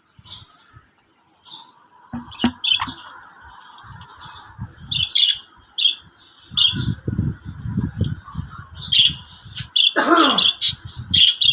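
Birds chirping and squawking in many short, sharp high-pitched calls that come thicker and louder in the second half. Low knocking noise runs under the calls through the middle.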